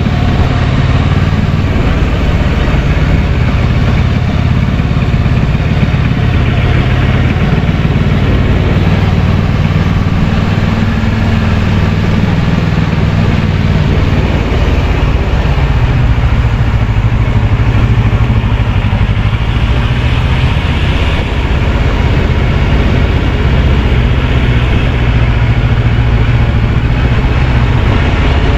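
Kawasaki Versys 650 parallel-twin engine running under way, mixed with heavy wind and road noise. The engine note climbs about eight seconds in, drops back around thirteen seconds, then holds steady.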